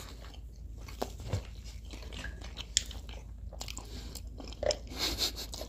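Close-mic eating sounds: biting and chewing crisp pan-fried potstickers and green onion pancake, with soft crunches and clicks. Near the end comes a short noisy slurp through a bubble tea straw.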